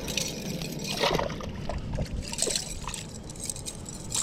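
Water sloshing and trickling, with a few small irregular splashes.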